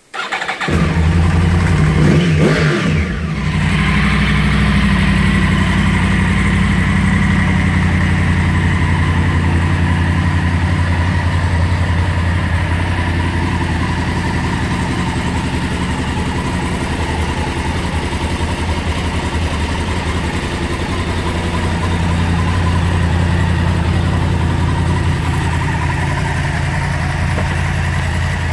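Yamaha R1's inline-four engine starting at the push of the starter button. It revs up briefly and drops back about two seconds in, then settles into a steady idle.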